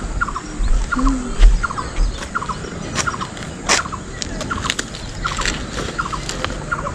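A bird calling over and over in short paired notes, roughly every half second, with sharp crackles from a banana leaf being handled and low buffeting of wind on the microphone.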